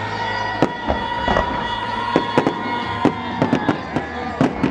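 Aerial fireworks exploding in quick, irregular succession: a string of sharp bangs and crackles.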